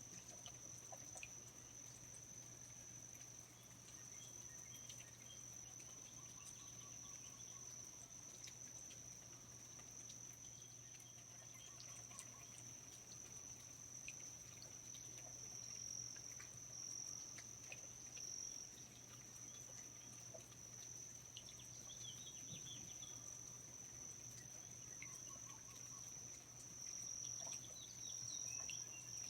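Faint rainforest night ambience: insects, most likely crickets, trilling in one steady high-pitched drone, with a few short faint chirps scattered through it.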